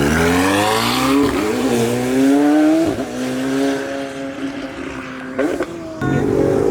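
A performance car's engine accelerating hard, revs climbing with breaks about one and three seconds in as it shifts up, then holding and fading as it pulls away. Another car's engine comes in near the end.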